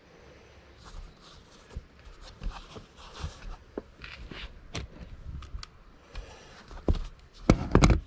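Marine carpet being handled and stretched over a plywood deck panel: rustling, scraping and scattered small knocks, then a quick run of several sharp, loud clacks near the end.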